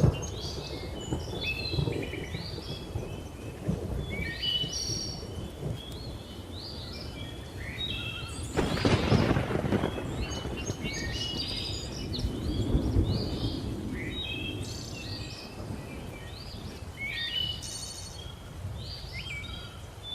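Thunder rumbling low and steady under many birds chirping in quick short calls, with a louder, sharper burst of thunder about nine seconds in and another swell of rumble a few seconds later.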